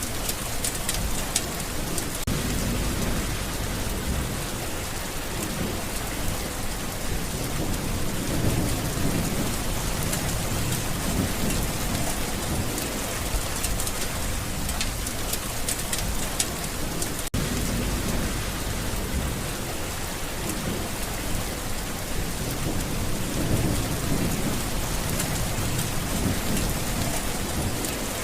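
Steady rain falling, with low rolling thunder swelling and fading several times.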